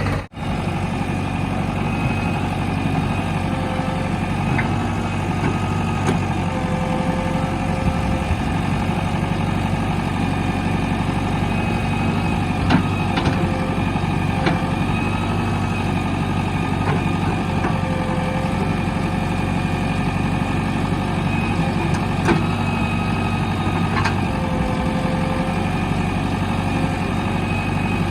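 Heavy diesel machinery engine running steadily, with a few short clicks or knocks over it.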